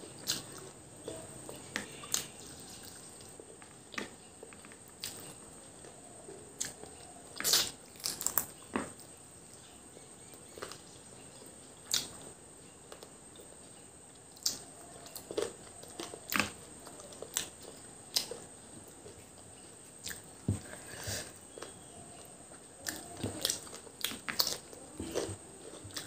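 Close-miked eating sounds of a woman chewing rice and chicken curry eaten by hand: irregular wet chewing with short clicks of mouth and fingers, over a faint steady high-pitched hiss.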